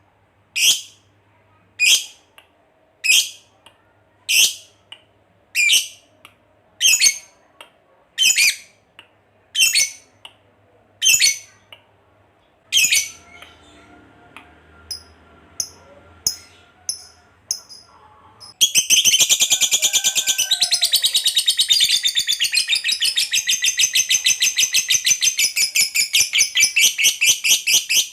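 Lovebird giving single sharp, high calls about once a second, then, about two-thirds of the way in, breaking into one long unbroken rapid chatter, the long "ngekek" that fanciers prize in a lovebird.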